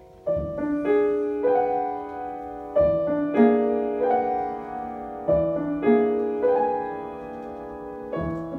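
Acoustic piano played, with notes left ringing. The passage falls into four phrases, each opening with a struck low note roughly every two and a half seconds.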